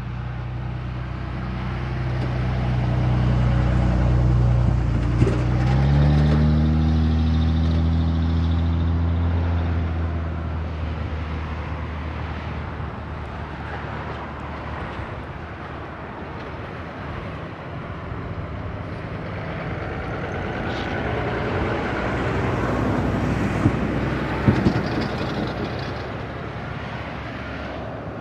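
Diesel-electric locomotives of a loaded coal train pulling under power: a deep engine drone that rises in pitch about five seconds in as the throttle comes up, then gives way to a steadier rumble of the passing train, with a few sharp clicks near the end.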